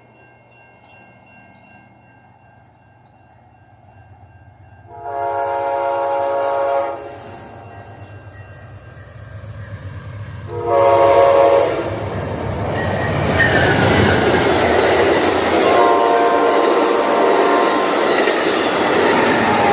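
Amtrak passenger locomotive's Nathan K5LA five-chime air horn sounding three times as the train approaches and passes: a long blast, a short one, then another long one. The passing train's wheels and engine rush loudly under the last blast.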